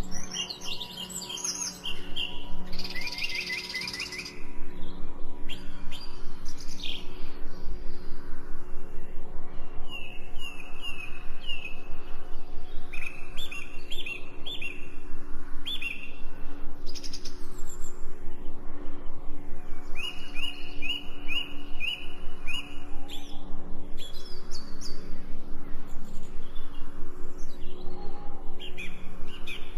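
Songbirds chirping in quick runs of short repeated notes, over a steady low humming drone. About four seconds in the sound gets louder and then pulses quickly and evenly.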